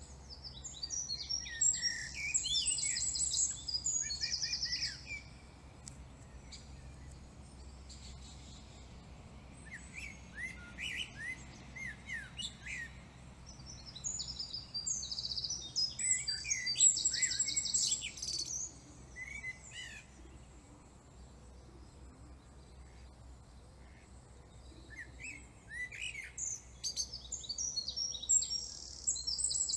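Songbird singing in phrases of rapid high chirps and trills, each a few seconds long, with pauses of several seconds between them.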